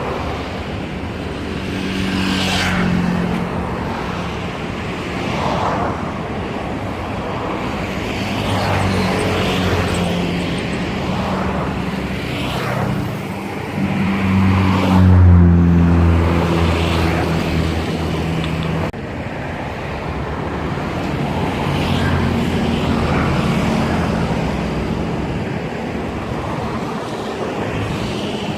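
Diesel engines of tugboats towing coal barges, a steady low drone over a rushing noise. It swells to its loudest about halfway through, then drops off suddenly a few seconds later.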